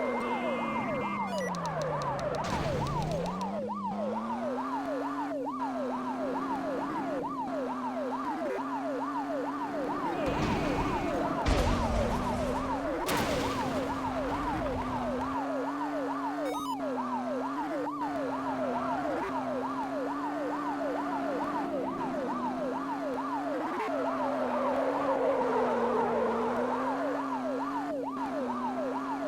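Cartoon police car siren sound effect in a fast, repeating yelp, over a steady wavering hum like a motor, with a few brief whooshes and clicks partway through.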